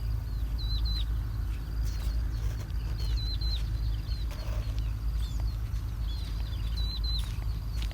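A small bird chirping in three short bursts of quick, high, down-hooked notes, over a steady low rumble.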